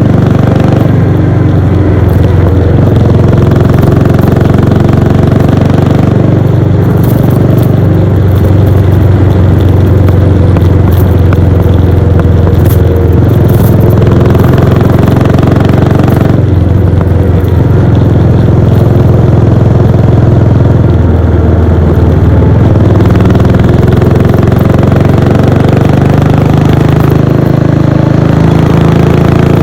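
Royal Enfield Bullet 500's single-cylinder engine and exhaust under way on the road, a steady loud thump whose note shifts as the throttle changes, notably about six and sixteen seconds in.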